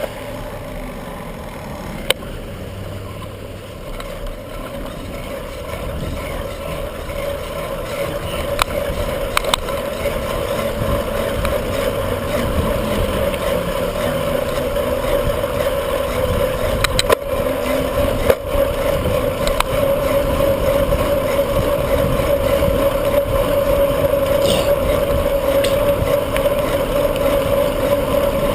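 Bicycle ride noise: wind on the microphone and rolling tyre noise with a steady hum, growing louder over the first half as the bike picks up speed, with a few sharp clicks.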